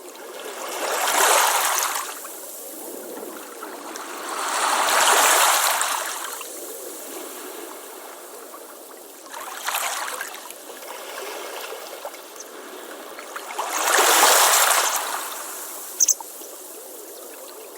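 Ocean waves washing onto a beach, four waves swelling and fading about every four to five seconds, with a short sharp click near the end.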